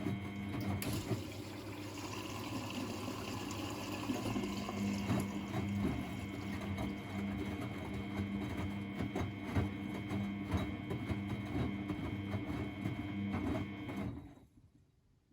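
Miele Novotronic W921 washing machine running: a steady motor hum with small knocks and water noise, which stops abruptly about 14 seconds in.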